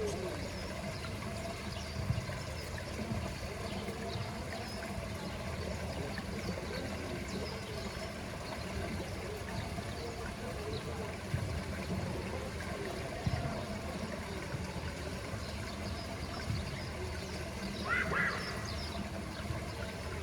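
Poolside ambience: steady trickling water with a low background rumble, scattered faint bird calls, and a short burst of higher chirps near the end.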